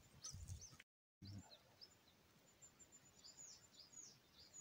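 Faint birdsong: a run of short, high chirps that slide downward, repeating every half second or so, after a moment of complete silence about a second in.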